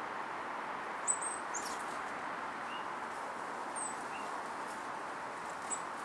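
Small birds giving short, high, thin call notes: a little cluster about a second in, then single notes near the middle and near the end, over a steady background hiss.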